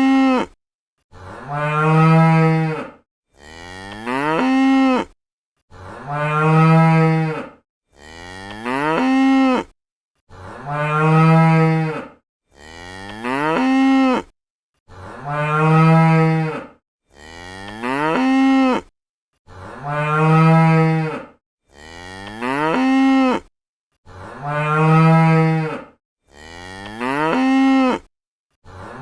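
Cow mooing over and over: about a dozen drawn-out moos, each about two seconds long, at an even pace with short silent gaps between. The calls are nearly identical, the same moo repeated again and again.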